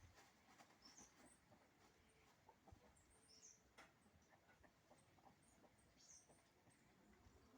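Faint, high bird chirps: a few short calls scattered through, in pairs about a second in, around three and a half seconds in and near six seconds in, over a very quiet background.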